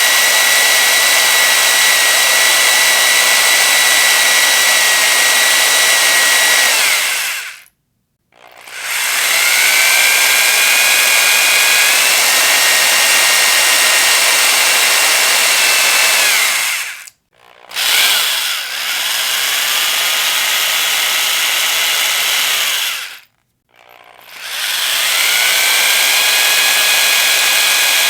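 Electric power drill running at full speed in four long runs. Each run spins up with a rising whine, holds a steady high pitch, then winds down. It stops briefly about eight, seventeen and twenty-three seconds in.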